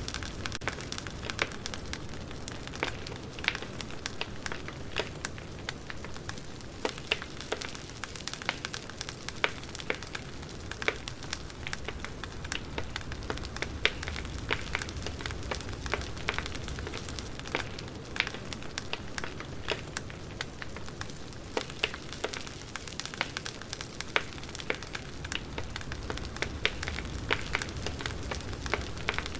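Campfire burning with steady, irregular crackles and pops over a low rush of flame.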